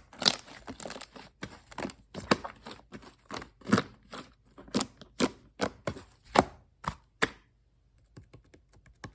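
Purple shaving-foam slime being squeezed and pressed by hand, giving irregular squishy pops and crackly clicks, several a second, that stop about seven seconds in, leaving only a few faint ticks.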